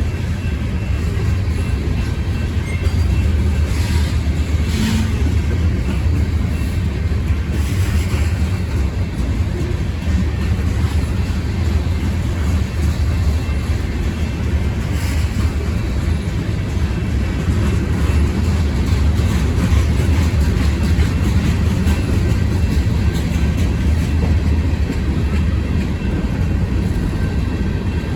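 Freight train cars rolling past steadily: a loud, low rumble of steel wheels on rail, with a few brief clanks along the way.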